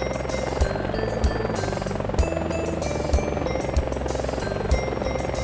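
Helicopter rotor chop, a fast steady flutter, over background music with short melody notes and a thumping low beat.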